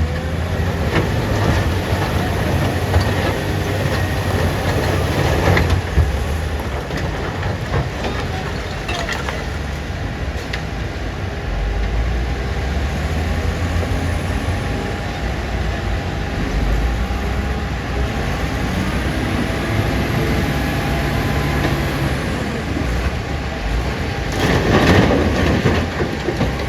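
Diesel engine of a Caterpillar 966D wheel loader running under load, its low rumble rising and falling as it works. Several brief clatters come through, with the loudest one near the end.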